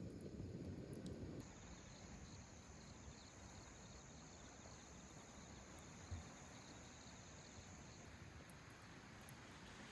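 Insects trilling steadily at a high pitch, starting about a second and a half in and stopping about eight seconds in, over a faint low background hiss.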